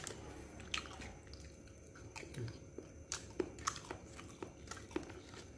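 A person chewing a mouthful of chicken satay, with irregular small wet smacks and clicks of eating, about one or two a second.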